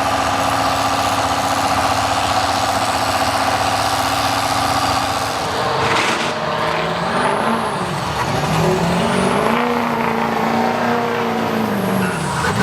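Diesel truck engine running steadily, then revving from about halfway through, its pitch rising, dipping, climbing again and holding before falling away near the end.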